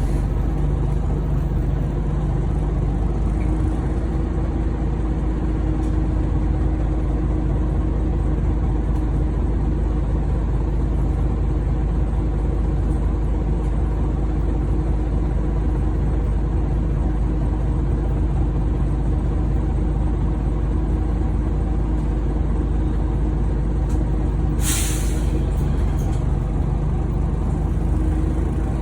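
Scania OmniCity bus heard from on board, its diesel engine and drivetrain running steadily under way. About 25 seconds in comes a short, sharp hiss of released air from the bus's air brake system.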